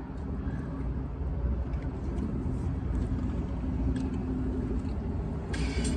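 Low steady rumble of a running car, with faint small clicks and a brief rustle near the end.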